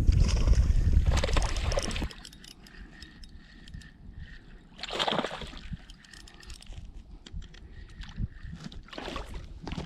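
Wind buffeting the microphone with a heavy low rumble that drops away about two seconds in. After that, water laps and sloshes against a kayak, with a louder splash about five seconds in and a few more near the end.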